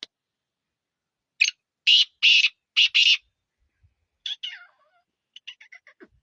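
Pet parrot screeching: five loud, harsh calls in quick succession starting about a second and a half in, then shorter, fainter calls and a quick run of short notes near the end.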